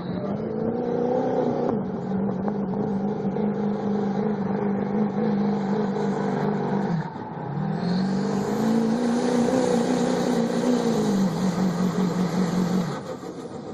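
Diesel pickup truck engine held at high revs under heavy load as it drags a pulling sled. The revs dip briefly about seven seconds in and climb again, a high whine joins in the second half, and the engine note drops off near the end.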